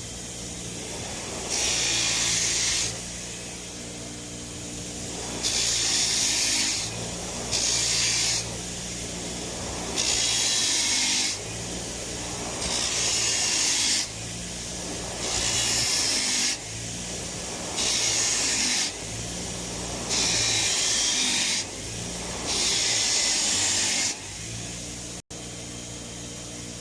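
Power-tool wire wheel cleaning the gasket surface of an engine's rear main bearing cap: the motor runs steadily while the bristles are pressed against the metal in nine passes of about a second each, every pass a loud scratchy hiss.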